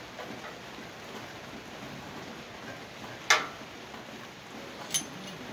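Two sharp clicks of tools and hardware at a motorcycle battery terminal, a loud one about three seconds in and a weaker one near the end, over a steady background hiss.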